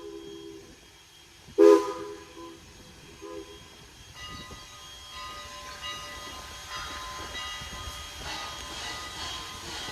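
A steam locomotive's chime whistle sounds one short, loud toot about a second and a half in, echoing back faintly. From about four seconds the running noise of the train slowly builds, with thin steady high-pitched tones in it.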